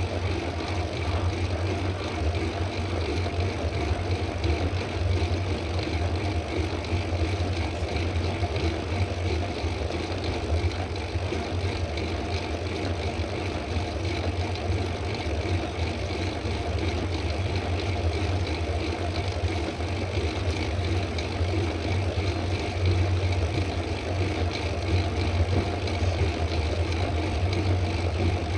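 Steady wind and tyre noise from a mountain bike ridden at speed on a paved road, with a constant low drone.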